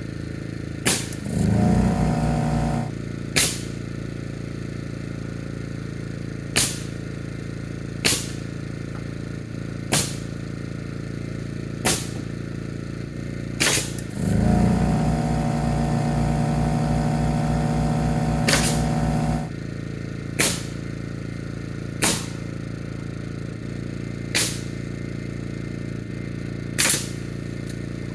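A pneumatic framing nail gun firing about a dozen single shots, roughly one every two seconds, over a steady engine hum. An air compressor kicks on briefly about a second and a half in, then runs again for about five seconds in the middle before cutting off.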